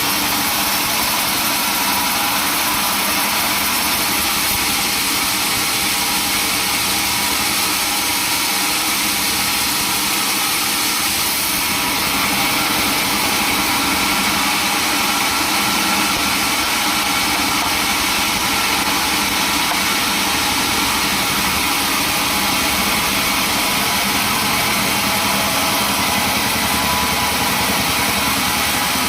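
Sawmill machinery running steadily, with a constant engine-like drone under a broad hiss. It gets slightly louder about twelve seconds in.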